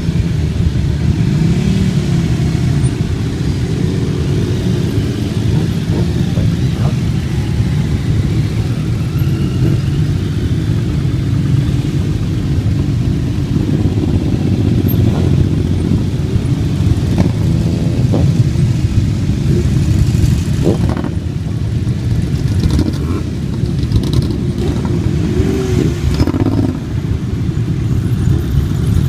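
Motorcycle engines running steadily as bikes ride in, the pitch rising and falling now and then.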